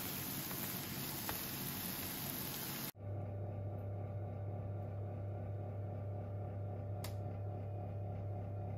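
A steady hiss that cuts off abruptly about three seconds in. It gives way to a steady low hum with a faint click near the end.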